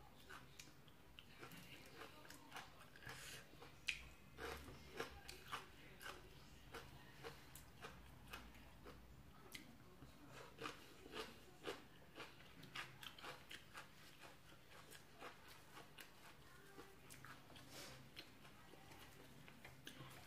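Faint close-up chewing: a person eating pounded long bean salad with raw shrimp and fresh vegetables, with scattered irregular crunches and wet mouth clicks.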